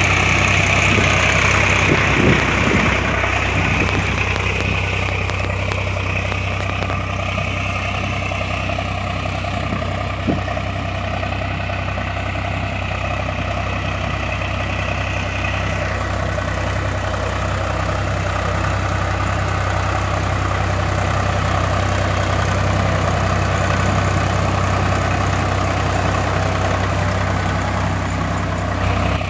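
Heavy machinery diesel engine running steadily at a low idle-like speed, with a deep even hum. A higher steady sound over it stops about halfway through.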